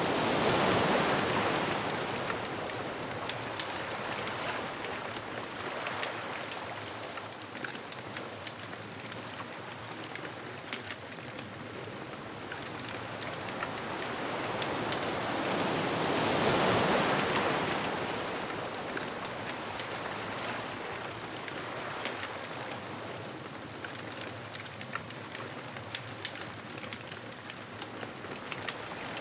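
Ocean waves breaking on a beach: two big swells, one at the start and another about sixteen seconds in, with a steady wash of surf between them and faint crackles throughout.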